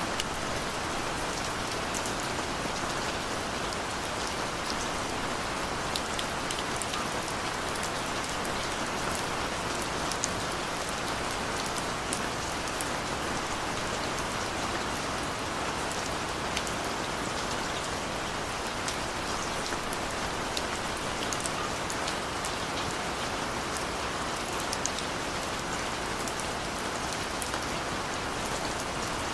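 Steady rain falling, with many small drop taps on a surface. No thunder.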